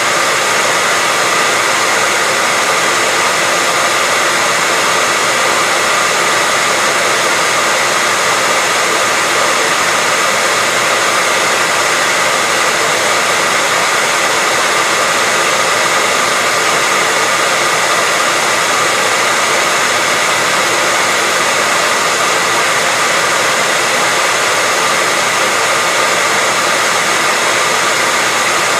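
Hair dryer running steadily: an even, unbroken airy rush with a faint steady whine in it.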